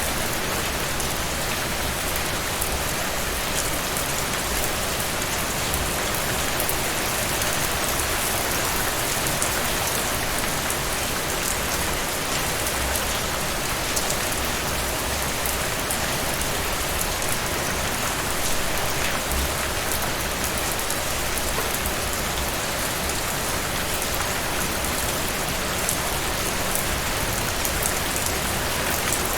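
Heavy rain falling steadily, a dense even hiss with many small drop ticks and a low rumble underneath.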